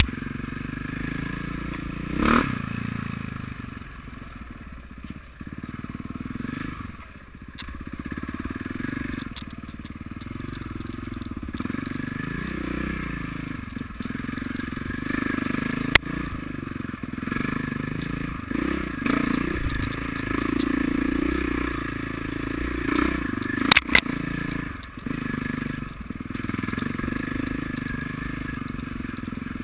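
Motocross motorcycle engines revving, their pitch rising and falling as the bikes ride. A few sharp clicks come in the second half.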